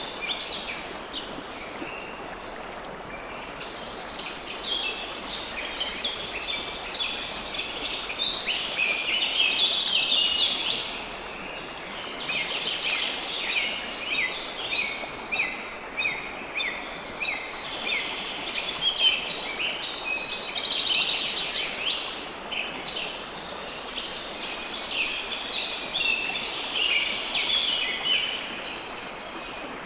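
A chorus of birds chirping and singing continuously, many short overlapping calls, over a steady hiss of running water.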